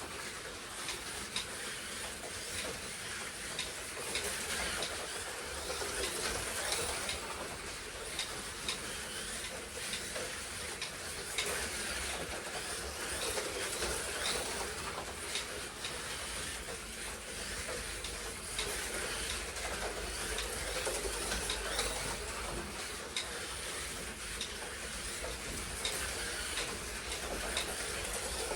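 Slot cars racing round a track: their small electric motors whining, with a steady run of clicking and rattling as the cars pass over the track.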